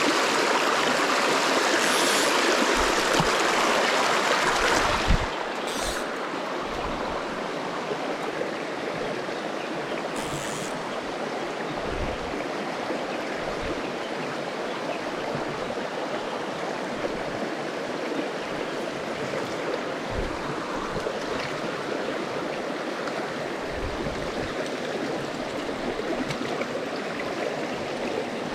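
Small mountain creek flowing: a steady rush of running water that drops suddenly to a softer level about five seconds in.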